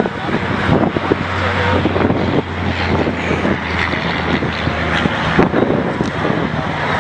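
Car engines running, with wind buffeting the microphone and a steady low hum through the first half.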